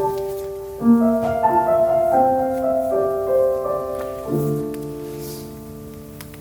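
Piano playing the closing bars of a choral piece: a run of single notes, then a final chord struck about four seconds in that slowly fades away.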